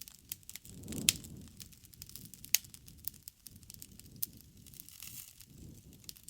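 Wood campfire crackling: a low rumble of flames with irregular sharp pops and snaps, two of them louder, about a second in and about two and a half seconds in.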